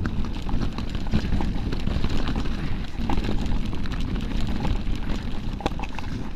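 Mountain bike riding down a steep, rocky descent: tyres rumbling over rock, with rapid irregular clicks and clatter from the bike, and wind buffeting the microphone.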